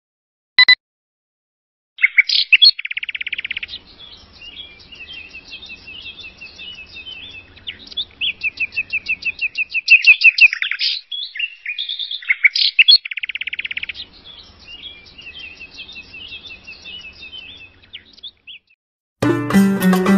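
Songbirds chirping, with repeated rapid trills and twittering, after a single short countdown beep. Music with plucked strings starts near the end.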